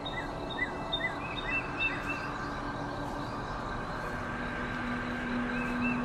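Birds chirping in quick runs of short calls that flick up and down in pitch, over a steady ambient drone. The chirping pauses midway, a lower held tone comes in, and the chirps return near the end.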